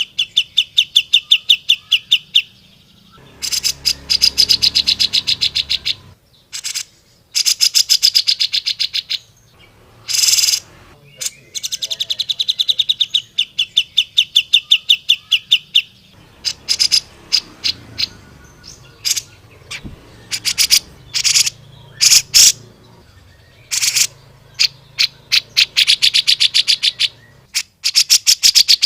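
Cucak jenggot (grey-cheeked bulbul) singing in loud, rapid trills of sharp repeated notes, in phrases of one to three seconds with short gaps, turning into shorter separate bursts in the second half.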